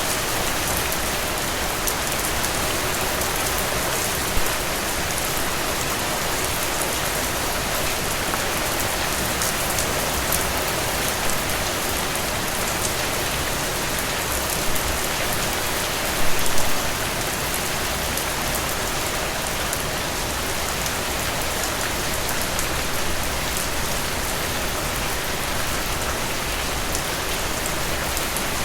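Heavy rain falling steadily, an even hiss of drops on surfaces, with a few louder individual drops or splashes, most clearly a short cluster a little past the middle.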